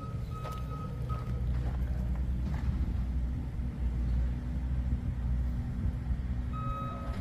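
A Ford 429 Super Cobra Jet V8 running with a steady, deep rumble.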